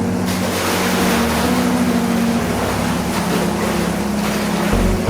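Steady rushing and churning of water in a current swimming pool, with background music playing over it.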